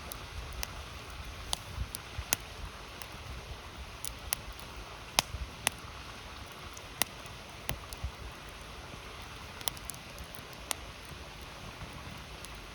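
Wood campfire crackling, with irregular sharp pops and snaps, a couple of them louder, over the steady rush of a river.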